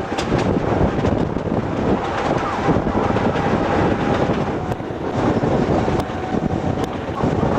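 Rack-railway train running, heard from inside the carriage by the window: a steady rumble and rattle of the running gear mixed with wind buffeting the microphone, a faint steady whine under it and a few light ticks.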